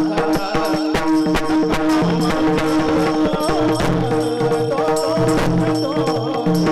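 Devotional kirtan music: a steady held drone under a wavering melody, with hand drum strokes and sharp percussive strikes keeping a rhythm.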